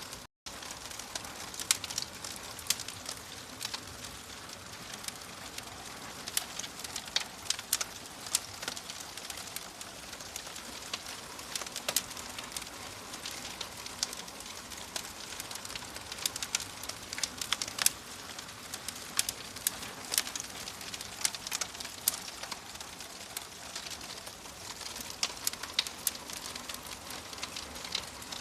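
Wood fire in a fireplace crackling: a steady hiss of burning with frequent irregular sharp pops and snaps. The sound drops out for a split second just after the start.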